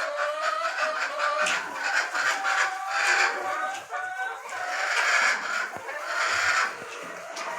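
A flock of chickens clucking and calling over one another, with louder, longer calls about three, five and six and a half seconds in.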